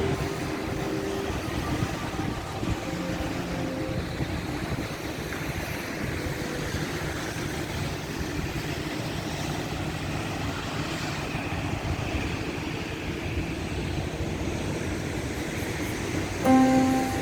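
Steady road and engine noise of a car driving in the rain.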